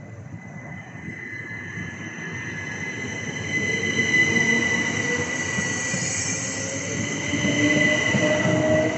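Class 375 Electrostar electric multiple unit pulling out of the station, growing louder as it goes. A high steady whine sits over its rumble, and from about six seconds in a lower motor whine rises in pitch as the train accelerates.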